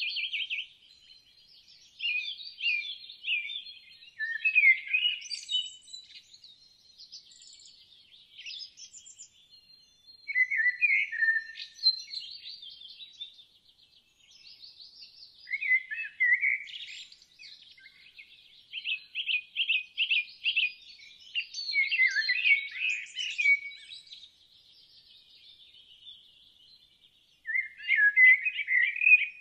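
Songbirds singing: several chirping, warbling phrases and quick trills, coming in bursts a second or two apart, with short quiet gaps between.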